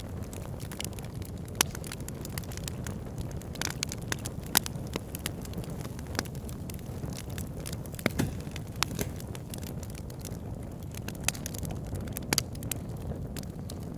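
Wood fire burning in a fireplace: a steady low rumble of flames with irregular sharp crackles and pops, a few of them louder than the rest.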